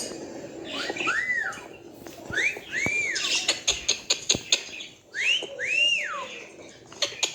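Cockatiel whistling: five short notes that each rise and fall, one alone, then two pairs, with a quick run of sharp clicks between the pairs and another near the end.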